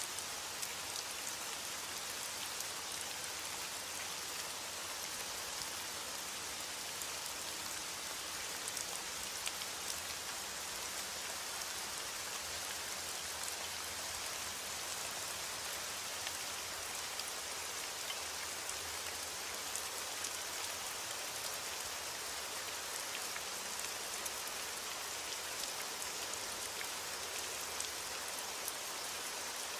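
Heavy rain falling steadily on a window, a dense even hiss with scattered faint sharp ticks.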